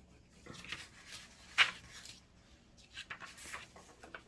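Handling noises: soft rustles with a sharp tap about a second and a half in and a few softer taps a little before the end.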